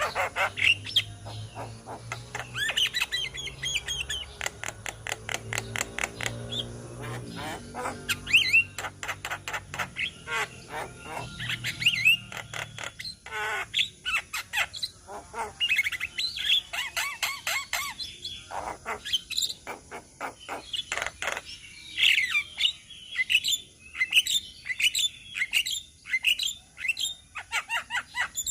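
A flock of Javan mynas chattering together: rapid runs of harsh clicks and squawks mixed with short whistled notes, with a low droning tone underneath for about the first twelve seconds.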